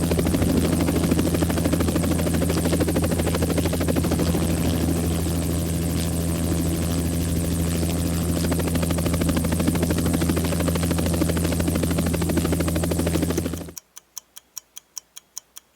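Helicopter flying, its rotor chopping rapidly and steadily over a low engine hum. It cuts off suddenly near the end, and a quick run of evenly spaced clock-like ticks follows.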